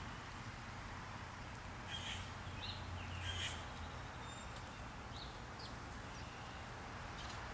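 A few short bird chirps come from off to the side about two to three and a half seconds in, with a couple of fainter notes a little later, over a steady low outdoor hum.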